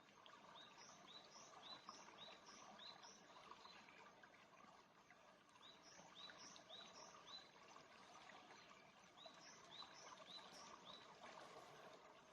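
Faint birdsong: a small bird repeating a short high note in three runs of five or six notes, over a faint hiss of the flowing stream.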